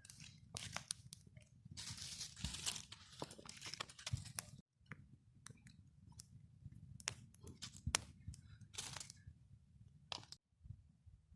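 Rustling and crunching with several sharp snaps, like dry twigs and forest litter being handled or broken, over a low steady rumble.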